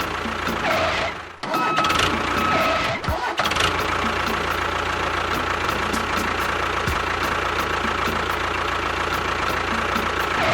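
An engine starting, with two brief breaks in the first three seconds, then running steadily until it cuts off sharply at the end.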